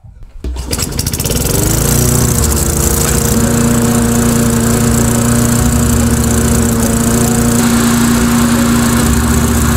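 Single-cylinder lawnmower engine starting, coming up to speed within about two seconds, then running steadily.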